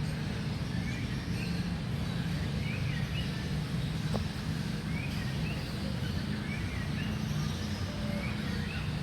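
Small birds chirping, short rising-and-falling notes repeated about once a second, over a steady low hum of distant city traffic.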